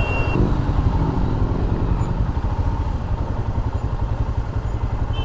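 Motorcycle engine running steadily, with a low pulsing rumble.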